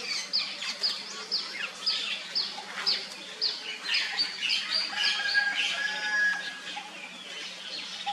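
Birds chirping: one bird repeats a short, falling, high chirp about twice a second, and other calls crowd in around the middle before thinning out. A faint low hum runs underneath.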